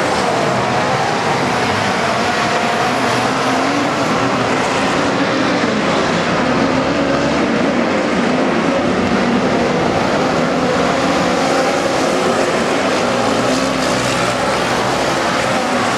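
Midget race car engines running hard on track. The note of several cars overlaps and wavers up and down steadily, with no break.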